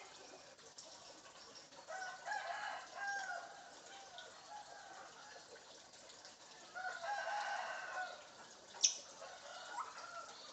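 Two rooster-like crowing calls, each about a second and a half long, a few seconds apart, followed by a sharp click.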